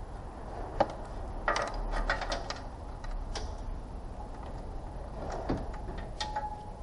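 Scattered light clicks and clatters of hand tools and parts being handled, with a quick cluster about a second and a half in and a few more near the end.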